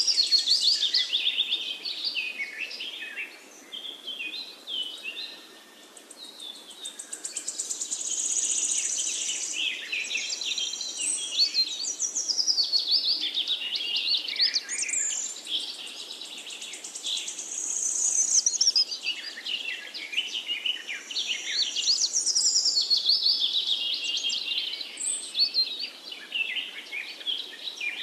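Birdsong: several small birds chirping and trilling in quick, high, sweeping phrases that run on with hardly a break.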